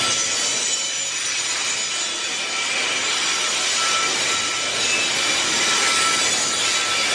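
Steel wheels of a loaded freight train's flat wagons rolling over the rails: a steady rolling rush, with a faint wheel squeal coming and going.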